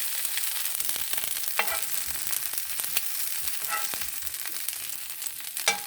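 Portobello mushrooms sizzling in hot grease in a frying pan, a steady frying hiss, with three short sharp clinks of a utensil against the pan, the last near the end the loudest.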